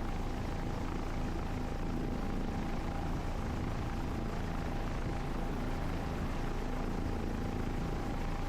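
Helicopter running steadily with its rotors turning, an even drone with faint steady tones, heard from inside the cabin.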